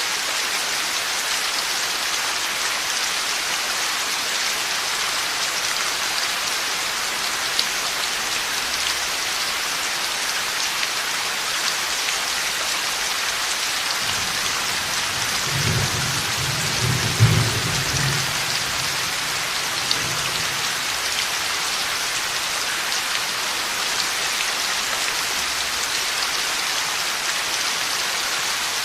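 Heavy rain falling steadily, with a low rumble of thunder rolling in about halfway through, swelling to a peak and fading out a few seconds later.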